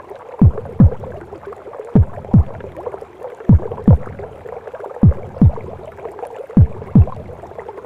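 Recorded heartbeat of a mother heard as from inside the womb: slow, deep double thumps (lub-dub), five beats about a second and a half apart. Under them runs a steady whooshing womb noise.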